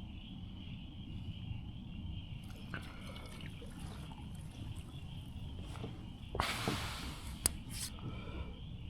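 Faint water sounds around a kayak on a creek, with light drips. About six and a half seconds in comes a brief rush of noise, then a couple of sharp clicks.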